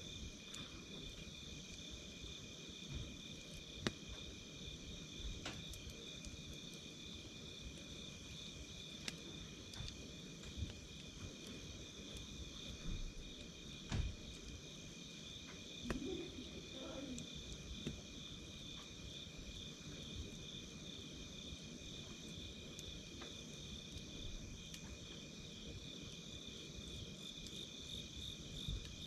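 Crickets and other night insects trilling steadily in two high, pulsing bands, with the sparse crackles and pops of a wood campfire; the sharpest pops come about four seconds in and about halfway through.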